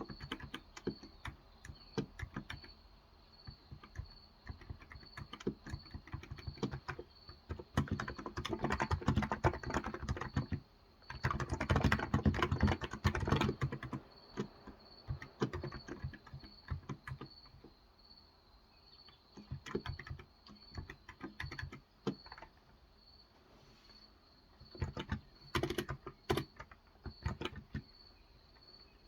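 Typing on a Cox Endeavour electro-capacitive 35 g tenkeyless keyboard, in uneven bursts with the fastest run about halfway through and short pauses later. Behind it a faint high chirp repeats steadily.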